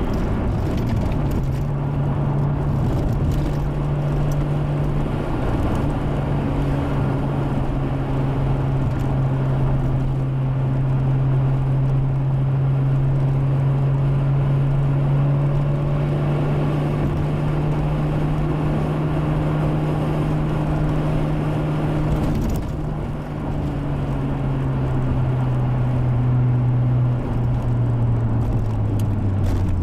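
Toyota Supra's turbocharged 1JZ inline-six engine running at fairly steady revs while driving, with a brief dip about 23 seconds in, then the revs falling slowly near the end.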